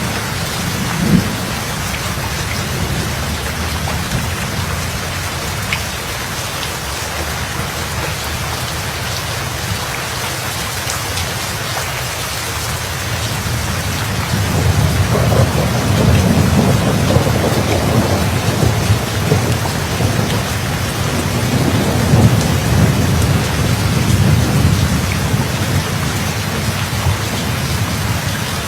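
Steady rain falling throughout, with a short sharp thunder crack about a second in. About halfway through, a long rumble of thunder swells up and rolls on for some ten seconds before easing near the end.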